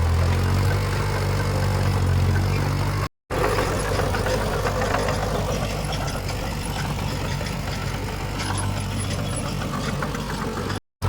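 Heavy diesel earthmoving machinery running. For about three seconds a deep, steady engine drone dominates. After a sudden cut the engine sound is weaker under a noisier wash of machine sound and scattered clatter, and a second brief cut comes near the end.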